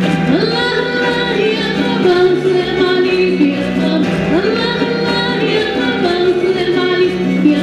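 A woman singing an Arabic song over an instrumental accompaniment with held low notes.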